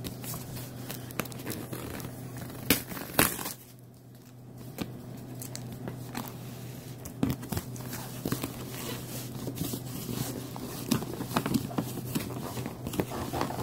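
Unboxing a toy: packaging crinkling and tearing as it is handled, with scattered clicks and two sharp knocks a few seconds in, over a low steady hum.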